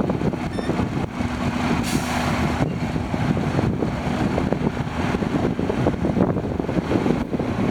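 Diesel engine of a Freightliner Cascadia tractor truck running steadily with a low hum.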